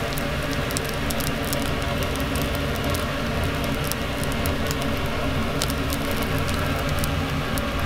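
Nasi goreng sizzling and crackling in a hot pan over a gas flame, with a steady low hum underneath.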